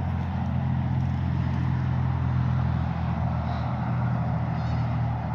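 Steady low mechanical rumble and hum, typical of motor traffic or an engine running.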